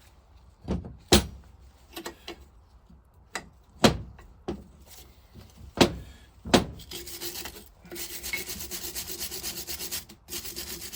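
Hand tools working on the old cast-metal vaporiser as a small cover is freed: a few sharp knocks and clinks, then about three seconds of fast, even scraping that stops abruptly.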